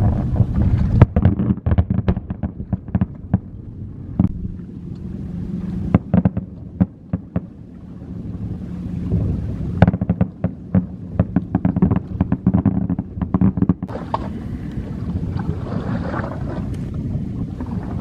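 Fireworks display: many sharp shell bursts and pops in rapid clusters over a steady low rumble, the bangs thickest a little past the middle.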